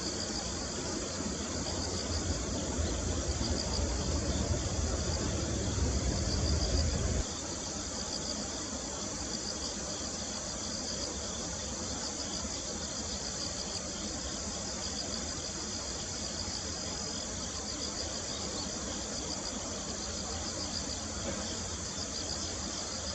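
Insects, cricket-like, chirping steadily in quick pulsing trills. A low rumble sits under them at first, grows louder, and cuts off suddenly about seven seconds in.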